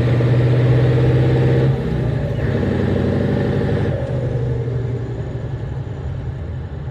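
Scania 142 truck's V8 diesel engine running under load. Its note drops suddenly about two seconds in, shifts again a couple of seconds later, and then grows steadily quieter.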